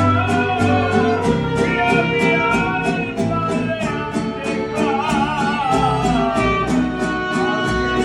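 Mariachi band playing live: violins carry the melody with vibrato over steadily strummed guitars and deep bass notes.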